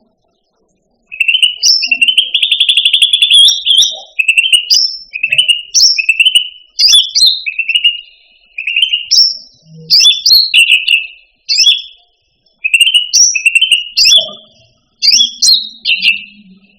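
Common iora (cucak ranti) singing: short, high whistled phrases one after another, with a fast trill near the start. The song begins about a second in.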